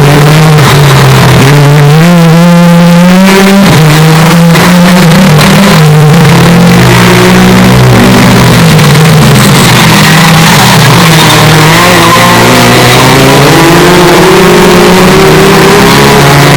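Hyundai Elantra N's turbocharged 2.0-litre four-cylinder engine and exhaust under hard driving, the engine note climbing and dropping several times as it accelerates and shifts, with a few sharp crackles about four to six seconds in. The audio is boosted until it is pinned at full level and distorts.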